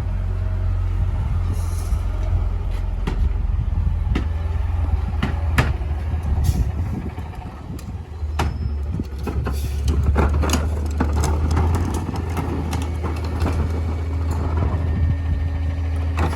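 Small garbage truck's engine running with a steady low drone, under scattered knocks and clatters of trash as its packer works. The drone dips briefly about halfway through, then comes back up.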